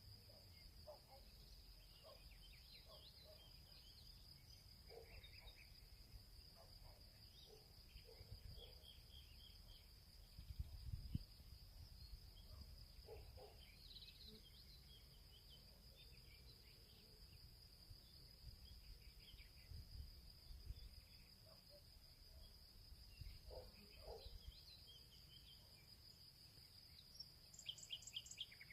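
Faint field ambience: insects trilling in one steady high unbroken tone, with scattered short bird chirps and calls over it. A low rumble rises about eleven seconds in.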